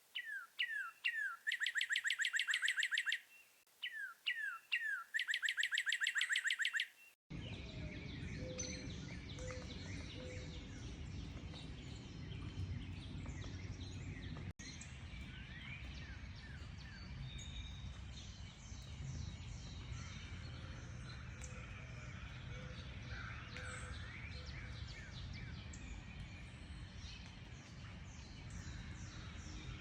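A single songbird sings the same phrase twice: a few falling notes, then a fast, ringing trill. About seven seconds in it cuts to a dense chorus of many birds chirping over a steady low background noise.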